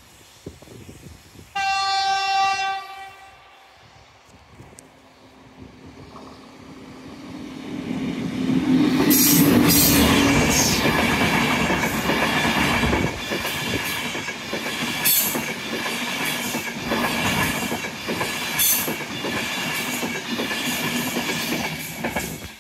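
A train horn sounds once, a short single note, then an InterCity 225 train (a Class 91 electric locomotive with Mk4 coaches and a driving van trailer) comes up and passes close by at speed. The wheels clack repeatedly over rail joints as the coaches go past.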